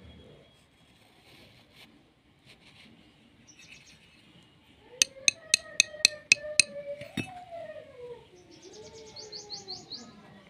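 A run of about eight sharp clicks, roughly four a second, over a lower wavering tone, then near the end a bird's quick trill of high rising chirps.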